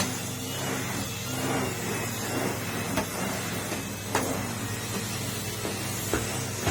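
Numatic Henry canister vacuum cleaner running steadily. A few sharp knocks come about three and four seconds in and again near the end.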